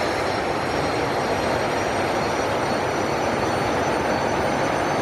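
Jet truck's jet engine running with a steady roar, over which a thin high whine slowly rises in pitch.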